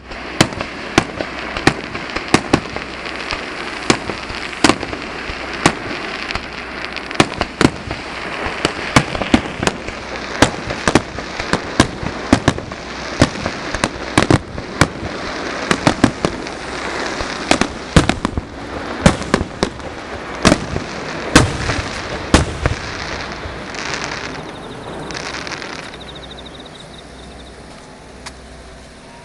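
Fireworks display: a rapid barrage of aerial shells bursting, dozens of sharp bangs over continuous crackling, which stop about 23 seconds in as the crackle fades away.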